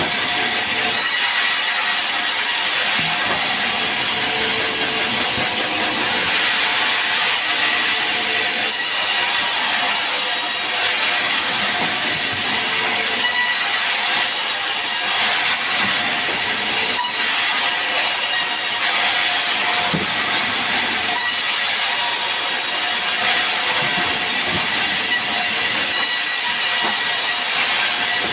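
Sawmill saw cutting steadily through sengon wood, a constant hiss-like noise that keeps an even level without a break.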